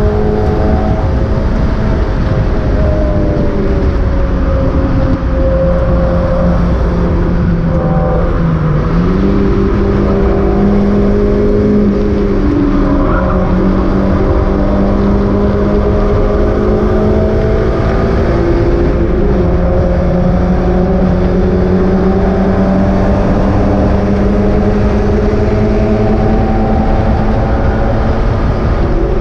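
Mazda MX-5 race car's four-cylinder engine running hard at high revs, loud and sustained. Its pitch dips briefly and recovers about nine seconds in and again around nineteen seconds in.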